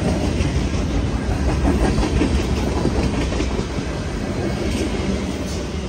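Freight cars of a Union Pacific manifest train rolling past at close range: a steady rumble of steel wheels on rail, with a few wheel clacks over the rail joints.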